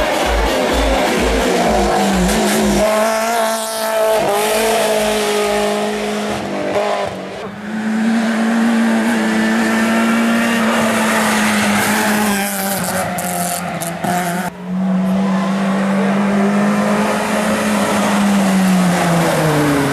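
Hill-climb race car engine at full throttle, climbing in pitch through the gears with brief lifts between shifts. One sharp cut comes about 14 s in, and the note drops away near the end. An electronic dance beat fades out during the first few seconds.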